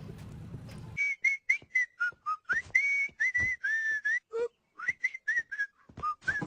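A tune whistled in a quick run of short notes, some sliding up or down between pitches, starting about a second in.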